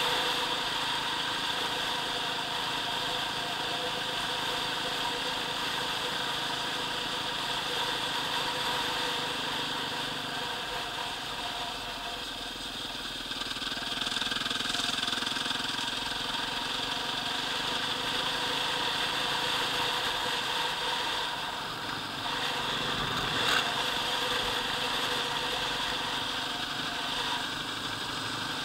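Enduro dirt bike engine running steadily as the bike is ridden along, as heard from the rider's own machine. It eases off about twelve seconds in and picks up again a couple of seconds later, with one brief sharp click past the twenty-second mark.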